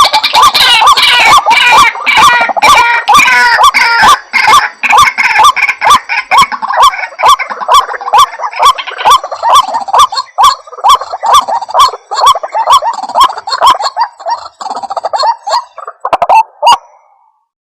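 White-breasted waterhen (ruak-ruak) calling: a loud, rhythmic series of the same call repeated about two to three times a second, with overlapping higher notes in the first few seconds. The calls stop shortly before the end.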